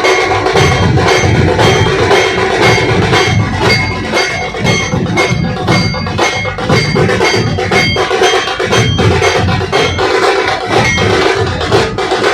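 A dhol-tasha troupe drumming: large barrel dhol drums and tasha drums playing a dense, steady rhythm without a break, with ringing metallic tones over the beat.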